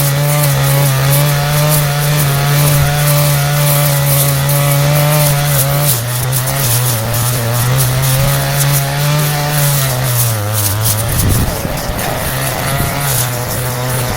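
Two-stroke brush cutter running at high throttle while cutting weeds. Its engine note drops slightly about six seconds in and sags further with a rougher noise around eleven seconds as it comes under load, then picks back up near the end.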